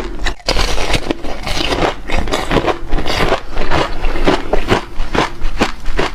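Close-miked biting and chewing of hard ice: a dense run of crisp, irregular crunches, with a brief pause about half a second in.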